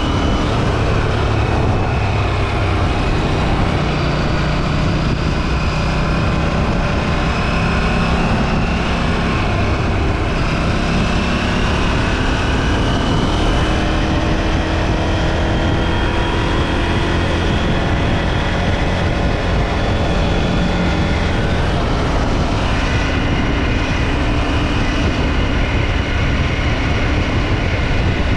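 KTM 790 Duke's 799 cc parallel-twin engine on stock exhaust, running under way as the bike is ridden. The engine note drifts gently up and down, and the pitch shifts about three-quarters of the way through.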